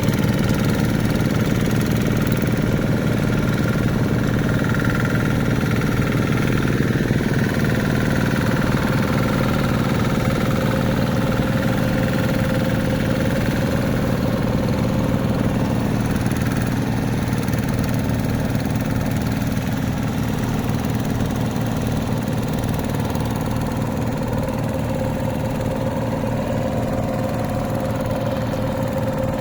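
Hand tractor engine running steadily with a fast, even chug.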